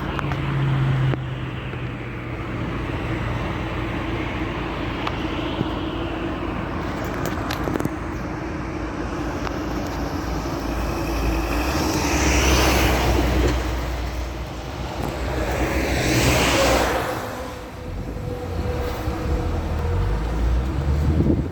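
Motorcycles going past twice, each swelling and fading, about halfway through and again a few seconds later, over a steady background of engine and street noise.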